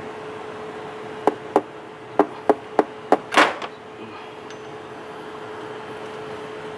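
About seven sharp metallic knocks and clicks over two or three seconds, from tools or metal parts being handled and set down on the engine while the drive belt is off. A steady faint hum runs underneath.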